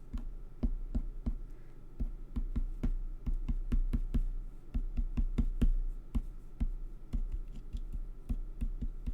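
White gel pen tip dotting flecks onto a card on the table: a quick, irregular run of light taps, several a second.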